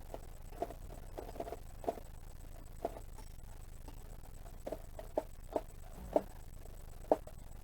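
Scattered light knocks and clicks, irregular and about a dozen in all, from fridge parts being handled and knocked against each other during disassembly of a portable fridge. The sharpest knock comes near the end.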